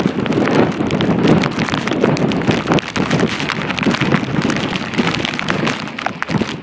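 Stormy wind buffeting the microphone, with many small drops pattering sharply against it; it cuts off suddenly near the end.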